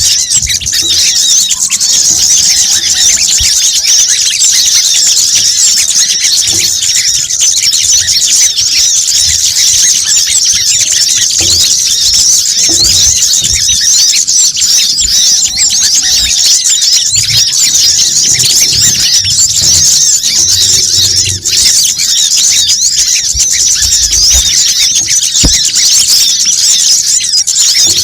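Dense, continuous, high-pitched chattering and chirping of many small birds overlapping, from a bird-lure recording of sunbird-type calls such as the coconut sunbird's (kolibri kelapa).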